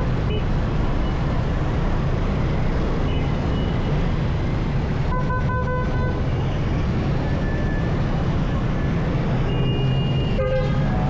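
Steady low rumble of a motorcycle riding through city traffic. About five seconds in, a vehicle horn sounds in a quick run of short toots, and a higher-pitched horn sounds near the end.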